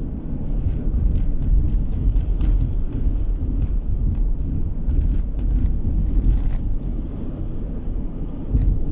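A car on the move, heard from inside the cabin: a steady low rumble of tyre and engine noise, with faint scattered ticks.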